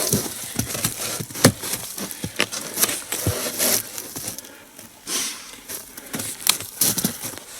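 Split log being handled and stood upright: irregular knocks and clicks of wood with crunching, rustling handling noise.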